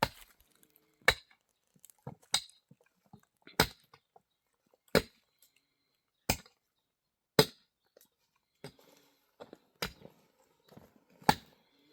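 A series of sharp, evenly spaced blows, about one every second and a quarter, each a short hard knock of a tool striking a solid object.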